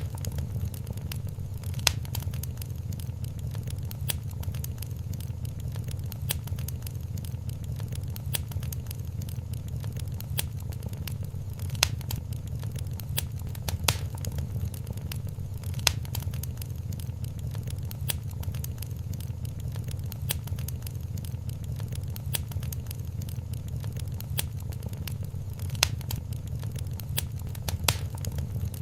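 Wood fire burning in a fireplace: a steady low rumble of flames with continual small crackles and a few louder pops.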